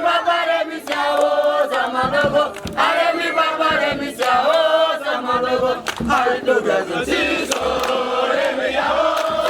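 A group of voices singing a chant together.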